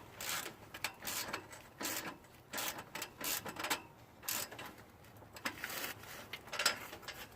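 Hand ratchet clicking in short, irregular bursts of strokes, tightening the repair clamp over a leaking exhaust pipe.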